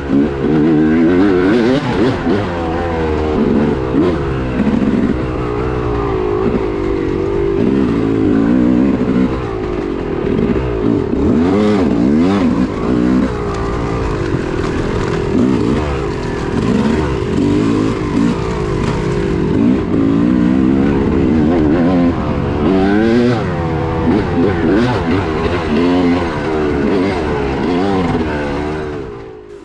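Dirt bike engine revving up and down continuously as the throttle is worked through a wooded race course, with a few brief knocks from the terrain. The engine falls away sharply near the end.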